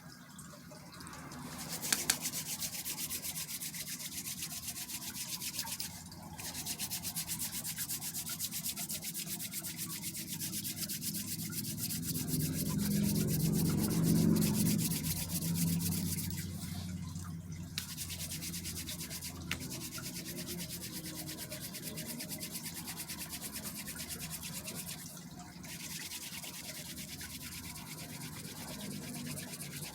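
Fast, continuous rubbing strokes of hair being worked by hand during loc repair, with short pauses about 6, 17 and 25 seconds in. A low murmur swells briefly midway.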